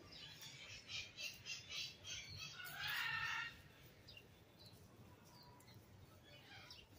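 Birds calling and chirping in quick repeated notes, with one louder call of just under a second about three seconds in.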